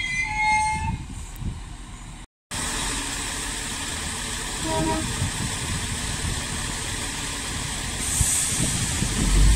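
Irish Rail 22000-class diesel railcar at the platform: a brief high wheel or brake squeal fades out as it comes to a stop. After a short break there is a steady rumble and hiss from the railcar standing with its underfloor diesel engines running, and the low rumble grows at the very end.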